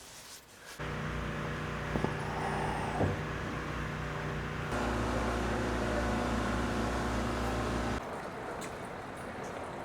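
Steady low hum of a vehicle motor with several even tones, in shots that change abruptly about a second in, near the middle and at about eight seconds. A couple of light knocks come around two and three seconds in.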